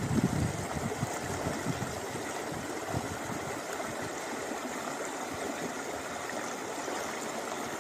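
River water rushing steadily. Wind buffets the microphone at first, dying away within the first couple of seconds.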